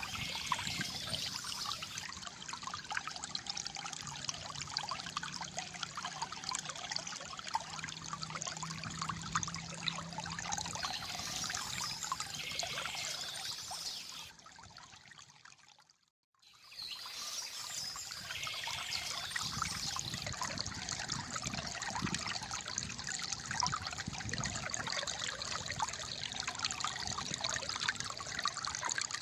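A small stream trickling and gurgling over stones. Just past halfway the water sound fades out to near silence for about a second, then fades back in.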